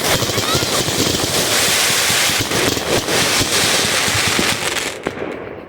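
Fireworks going off close by in a dense run of crackling and popping, which cuts off abruptly about five seconds in.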